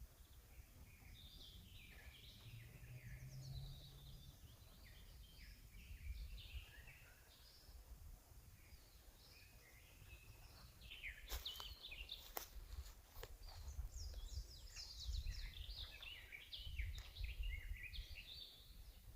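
Songbirds singing faintly in a forest, several overlapping chirping and warbling phrases, over a low rumble. A few sharp clicks sound about two-thirds of the way through.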